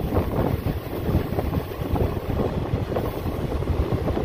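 Passenger train running along the track, heard from an open coach door: a continuous rumble with irregular clatter of the wheels on the rails, and wind buffeting the microphone.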